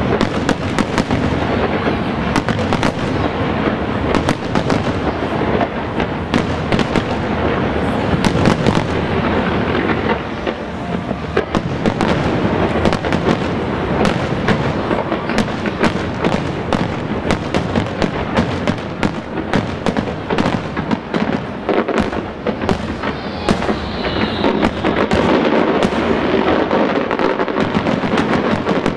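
Aerial fireworks display in a dense barrage: shells and crackling bursts going off in rapid, continuous succession, many bangs every second with no gaps. A short whistle rises and falls near the end.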